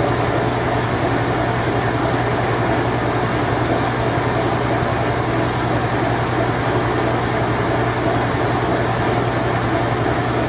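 Circa-1990 Whirlpool Imperial Clean Touch top-load washing machine running in its spin cycle: a steady motor hum under an even rushing whir that does not change.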